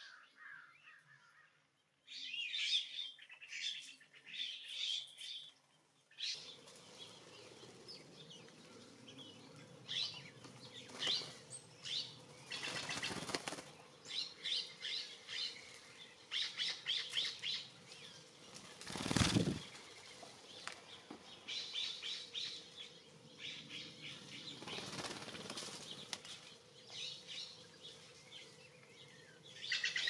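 Small birds chirping in quick repeated series at a feeder, broken by three whooshes of wingbeats. The loudest whoosh comes about two-thirds of the way through.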